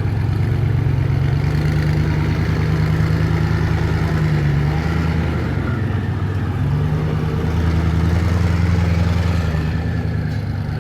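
Supercar engine running at low revs, a steady deep rumble that eases off about halfway through and then builds again.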